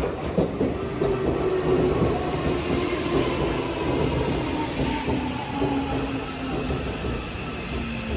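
Electric train running on the rails, starting with a sudden loud rush and a few knocks, then a steady rumble with a whine that slowly falls in pitch as the train slows.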